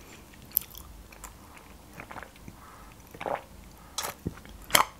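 A person chewing food close to the microphone: soft wet mouth clicks and lip smacks, with a few sharper smacks in the second half.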